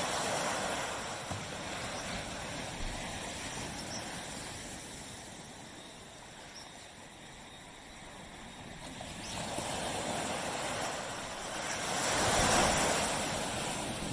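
Waves breaking and washing up a beach: a surge of surf at the start fades to a quieter lull, then a second wave builds and breaks, loudest near the end.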